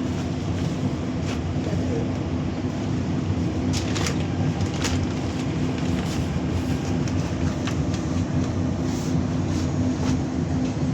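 Dubai Metro train running, heard from inside the carriage: a steady low rumble with a constant hum and a few faint clicks about four to five seconds in.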